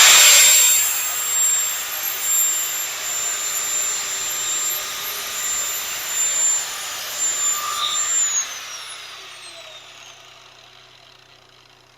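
Handheld electric grinder running at full speed with a high steady whine, smoothing the cut edge of stainless steel exhaust tubing. About eight seconds in it is switched off and winds down with a falling whine.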